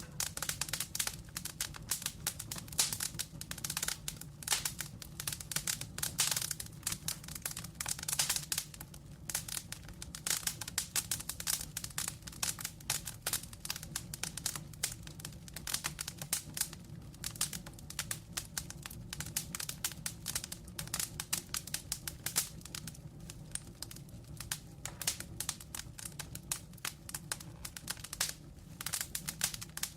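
Burning logs in a fireplace crackling and popping, dense and irregular, over a low steady rumble.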